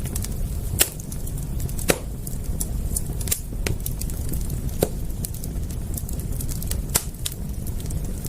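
Wood campfire crackling: many small ticks and a handful of sharp, louder pops over a steady low rumble.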